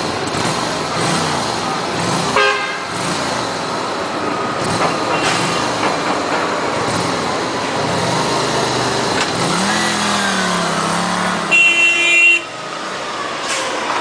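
Road traffic with vehicle engines running steadily. A horn toots briefly about two and a half seconds in and again, louder and for under a second, near the end. Between them an engine revs up, rising in pitch and then holding.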